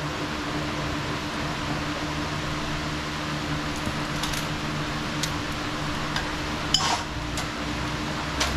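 Steady machine hum, with a few light metal clinks and taps; the sharpest clink rings briefly about seven seconds in.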